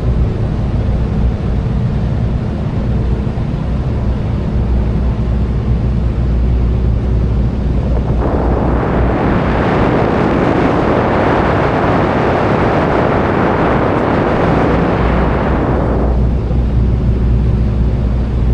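Tour boat's engine running steadily with a low drone. About eight seconds in, a rushing noise of wind or water swells up over it for roughly eight seconds, then drops back.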